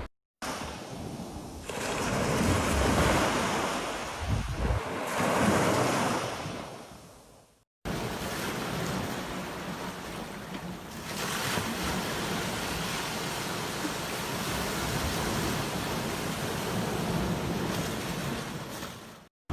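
Ocean surf breaking on a beach, with wind rumbling on the microphone. Two waves surge and wash back, then the sound cuts out abruptly and a steadier surf wash follows, swelling once midway; it cuts out again at the end.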